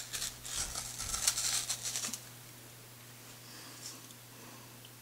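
Crisp crunching of a snack being bitten and chewed close to the microphone for about two seconds, then it goes quiet.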